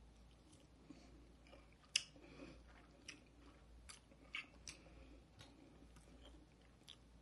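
Faint chewing of a mouthful of creamy pasta and chicken, with scattered small clicks; the sharpest click comes about two seconds in.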